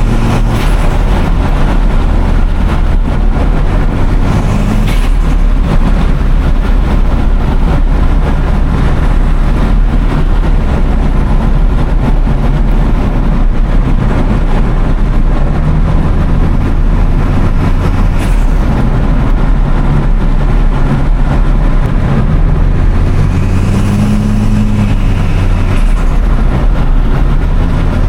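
AI-generated audio imitating a 1996 Toyota Starlet Glanza V's turbocharged four-cylinder engine running on the move. The low engine note steps up and down in pitch several times.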